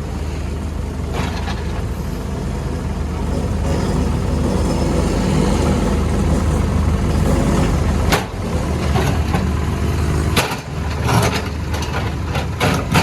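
Diesel engine of a CAT 462F backhoe loader running steadily and working harder through the middle. In the second half several sharp knocks and cracks come through as the road surface is broken up.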